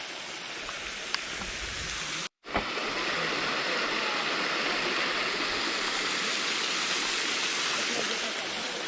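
Flowing water, a steady rushing hiss. It cuts out briefly about two and a half seconds in and comes back louder.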